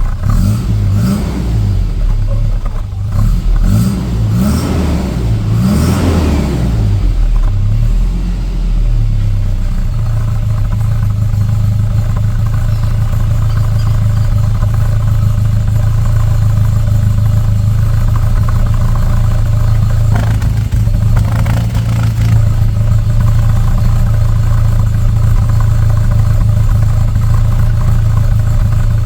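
Volvo 244 red block four-cylinder engine running through a new Simons sport exhaust system. It is revved up and down several times in the first few seconds, then settles into a steady idle.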